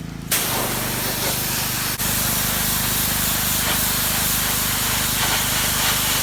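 Engine-driven pressure washer blasting water against cedar siding, the hiss of the spray starting suddenly just after the start over the steady hum of its engine, with a brief break about two seconds in.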